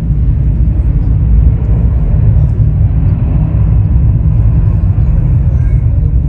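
Jet airliner engines giving a loud, steady low rumble.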